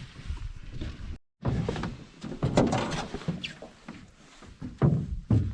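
Knocks, thumps and scuffling against the hull of a small fishing boat as people and a dog shift about in it. The heaviest thumps come near the end.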